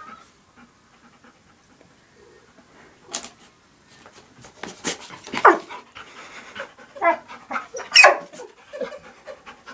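Puppy panting and scuffling, quiet at first, then a run of short, sharp noises and scrapes from about three seconds in.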